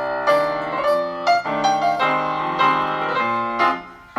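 Piano music: a phrase of struck chords and melody notes that dies away just before the end, then a new phrase begins.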